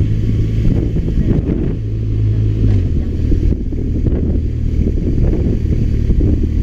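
BMW R1200RT motorcycle's boxer twin engine running under way, with wind rumble on the microphone; the engine note shifts slightly about three seconds in.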